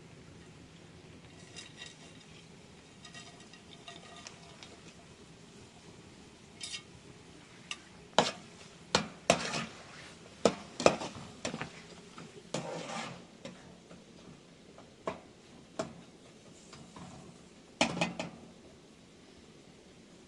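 Kitchen utensils clinking and knocking against pots and dishes while food is stirred and handled. A few faint clinks come first, then a run of sharp, separate clinks from about six seconds in, with a last cluster near the end.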